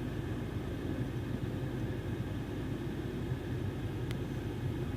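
Steady low hum inside the cabin of a running Range Rover Evoque, with a single faint click about four seconds in.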